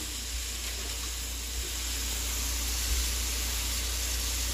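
Shrimp frying in a pan on an electric stove, a steady sizzle with a low hum beneath.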